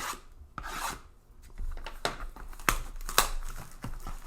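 A sealed cardboard box of baseball cards being opened by hand: rasping tears of wrapping and cardboard, then several sharp snaps and clicks, loudest about three seconds in.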